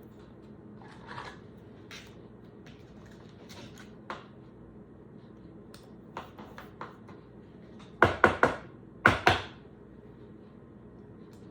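Trading cards being handled: soft scratching and light clicks as cards are shuffled and slid, then two quick groups of sharp taps about 8 and 9 seconds in, three and then two.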